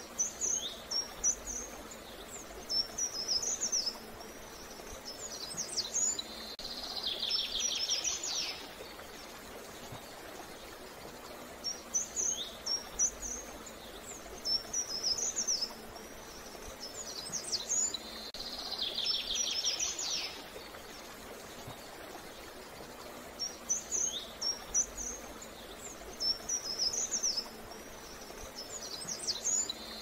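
A songbird singing the same short song over and over, about every six seconds: a few quick high chirps followed by a lower, rapid trill. A faint steady hiss lies underneath.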